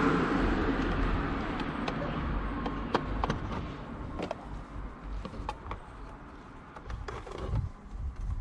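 A passing vehicle's noise fading away over the first few seconds, then scattered light clicks and taps of parts being handled on the car.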